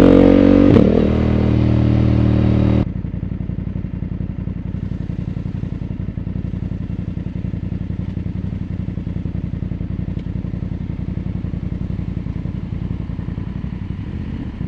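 BMW F 900 GS parallel-twin motorcycle engine slowing down, with a sharp click about a second in. About three seconds in it drops abruptly to a steady idle with an even pulse.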